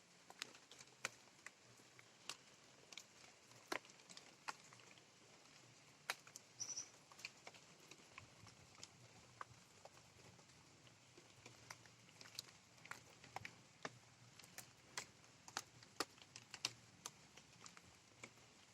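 Raindrops dripping and tapping at irregular intervals over a faint hiss of light rain.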